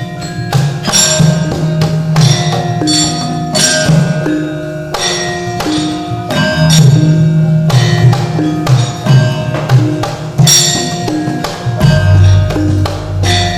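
Javanese gamelan ensemble accompanying a shadow-puppet play: tuned bronze metallophones and gongs with sharp, bright knocks struck every half second or so, typical of the dalang's keprak plates and wooden cempala. A low drum pulse comes in near the end.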